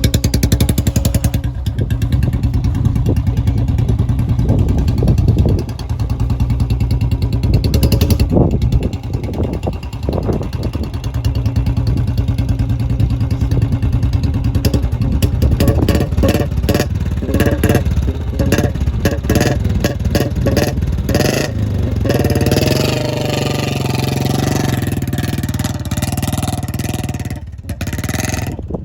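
Royal Enfield Bullet 350's single-cylinder engine running with the throttle worked, its note changing several times.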